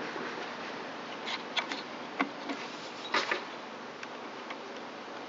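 A few light clicks and taps of the plastic engine shroud and wiring being handled and pushed into place, over a steady background hiss.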